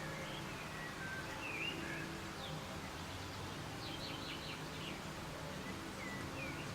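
Soft, steady rain with several birds chirping over it, a quick run of chirps a little past halfway.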